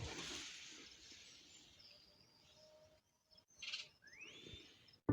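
Faint outdoor ambience with birds, including a short rising chirp about four seconds in, over a hiss that fades away in the first seconds.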